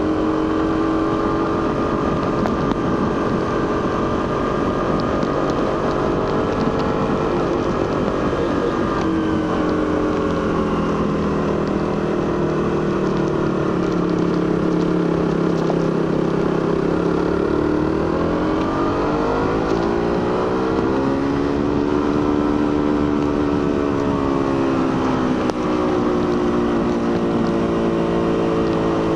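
Suzuki GSX-R150's single-cylinder engine running through its stock exhaust under way. Its note sinks as the throttle eases from about nine seconds in, dips, then climbs again at around twenty seconds and once more near the end, over a steady rush of wind noise.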